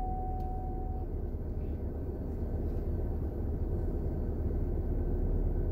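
Steady low rumble of a car idling, heard from inside the cabin. A faint steady high tone cuts off about a second in.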